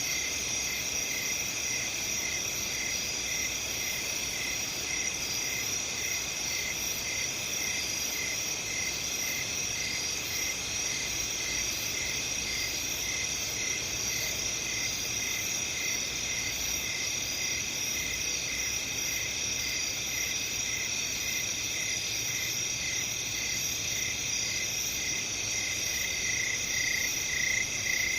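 Night-time chorus of crickets: a steady high trill, with one chirp repeating about twice a second that grows louder near the end.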